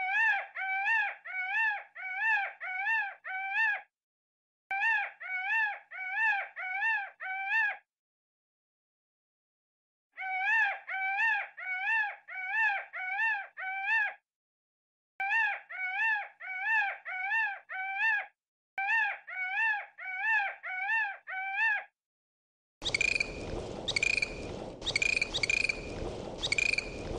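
An animal's call: a clear pitched note repeated about twice a second, in bouts of several seconds with silent gaps between them. Near the end a different, noisier pulsing animal call takes over.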